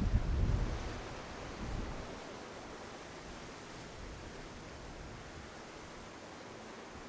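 Steady wash of wind and ocean surf. Wind buffets the microphone with a low rumble in the first second and again briefly near two seconds in.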